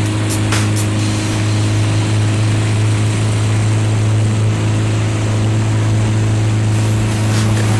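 Neptun 500 motorboat's engine running steadily under way, a constant low drone with a rush of wind and water over it. A few sharp clicks come in the first second.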